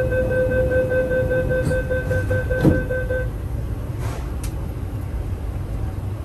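MTR R-Train door-closing warning: a rapid, steady electronic beeping tone sounding for about three seconds as the doors close, with a knock as they shut about two and a half seconds in. A brief hiss follows about four seconds in, over the low hum of the stationary train.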